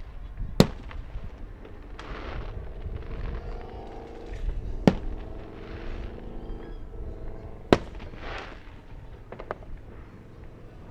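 Fireworks exploding: three sharp booms, about three seconds apart, with fainter pops and crackling fizz between them.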